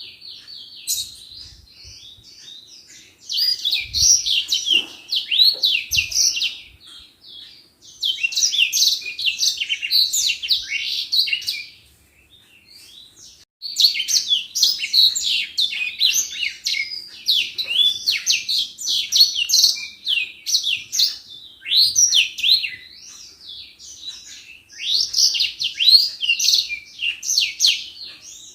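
Edelsanger singing vigorously: long bursts of fast, twittering high notes several seconds each, broken by short pauses with softer chirps.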